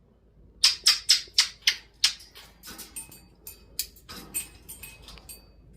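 A quick run of sharp taps, about three a second and loud for the first second and a half, then fainter and more scattered.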